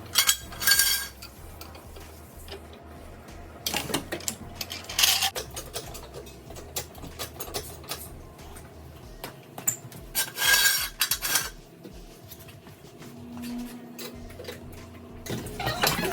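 Metal tools and parts clinking and rattling, in several short bursts with scattered single clicks between them.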